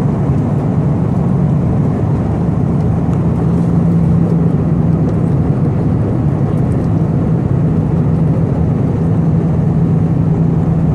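Steady cabin noise inside an Airbus A319 airliner in flight: the continuous roar of engines and airflow with a constant low hum.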